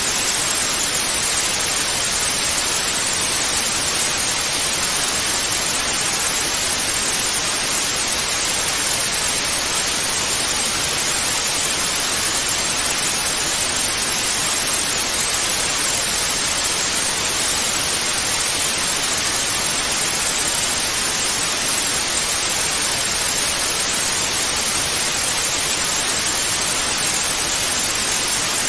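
Television static: a steady, even hiss of white noise with no changes.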